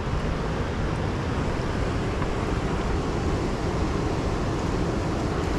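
Steady rushing of river water and falls, an even noise without pitch or rhythm.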